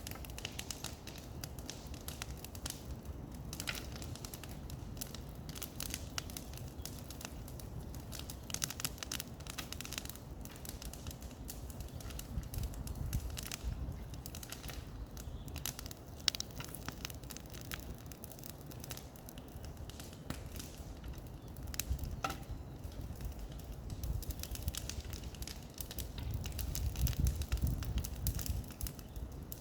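Dense, irregular crackling and snapping of dry brush and twigs over a low rumble that swells near the end.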